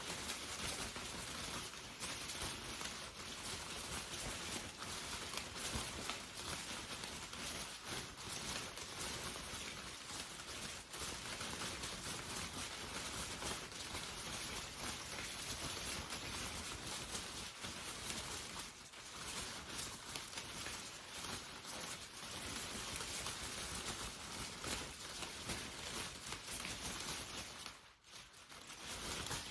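Rain pattering steadily on an umbrella, a dense hiss of many small drop impacts. It drops away briefly near the end.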